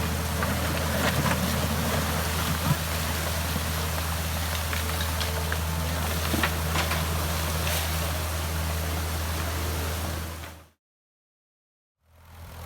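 A heavy machine's engine running steadily at a low, even speed, with scattered knocks over it. The sound fades out about ten and a half seconds in, and a fainter engine sound comes back near the end.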